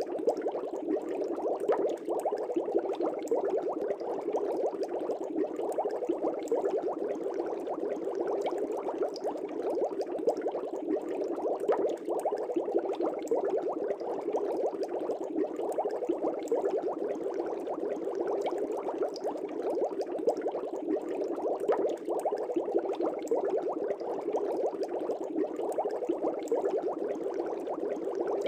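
Air bubbles bubbling steadily through the water of a fish tank, a dense, even burble of many small pops.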